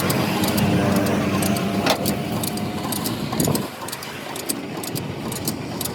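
An engine running steadily, dropping off about three and a half seconds in, with sharp clicks throughout.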